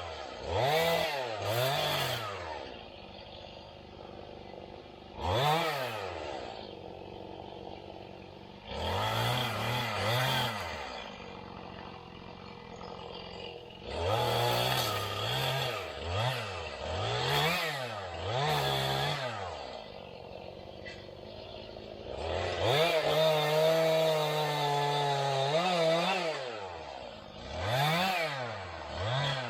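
An engine revved up and down again and again in quick blips, held at high revs for a few seconds near the end.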